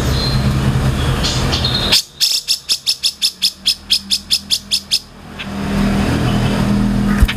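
A bird calling a rapid run of about fifteen sharp, high notes, about five a second, for some three seconds. Before and after the run there is a steady low engine hum.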